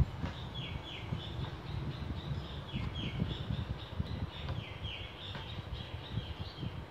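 A bird calling: short downward-sliding chirps, a few at a time, repeated several times. Under it runs a low rumble of handling noise on the microphone.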